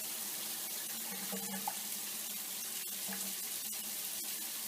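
A steady hiss with a few faint ticks, the kind made by running water.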